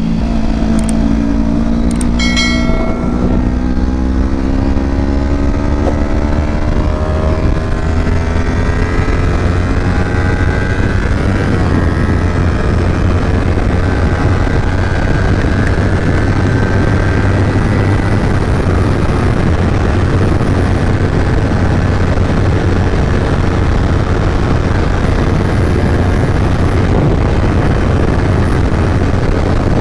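Kawasaki Ninja 250 engine pulling hard under acceleration, its pitch climbing steadily over the first ten seconds or so. After that it holds speed and a steady rush of wind and road noise covers the engine.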